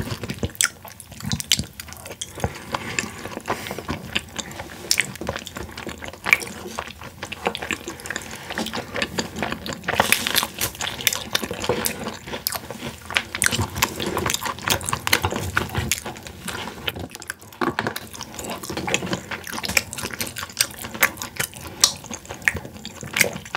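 Close-miked chewing of boneless fried chicken by two people: wet mouth sounds with many small irregular clicks, a little busier about ten seconds in.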